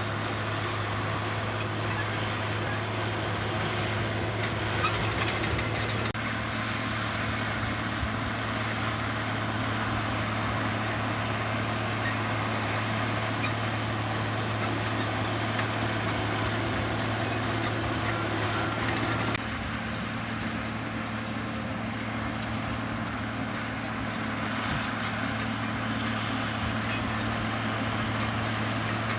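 Komatsu D65EX bulldozer's diesel engine running steadily at a constant drone, with scattered sharp clicks over it; the engine note drops slightly about two-thirds of the way through.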